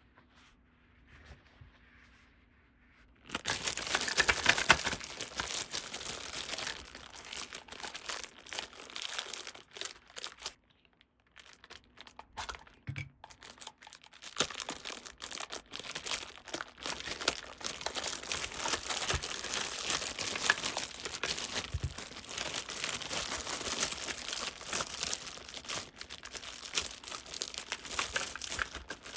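Packaging crinkling and tearing as toys are unwrapped, starting about three seconds in after a quiet moment, dipping briefly a little past the middle, then continuing.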